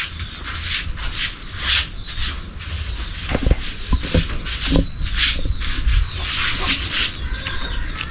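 Brushing strokes: a stiff brush rubbing a surface over and over, about two to three strokes a second.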